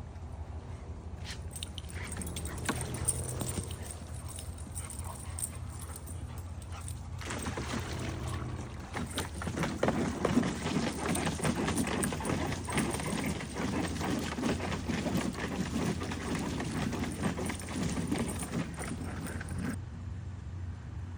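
Dogs whining and whimpering over a steady low hum. The sound gets busier and louder from about seven seconds in.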